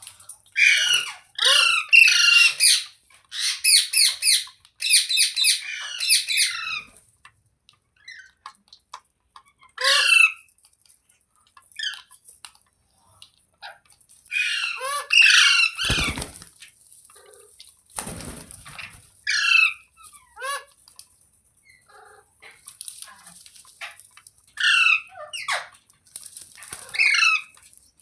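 Parrot screeching: a rapid run of harsh calls for the first several seconds, then single calls every few seconds. Two dull thumps come at about the middle.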